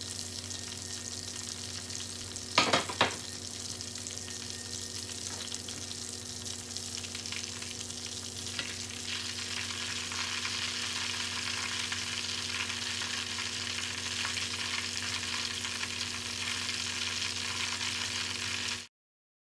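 Pork belly deep-frying in oil in a stainless steel pan, a steady crackling sizzle, as it crisps into Thai crispy pork (moo krob). A few sharp knocks come about three seconds in. The sizzle grows brighter from about halfway, as the slab is lifted in the oil, and cuts off suddenly near the end.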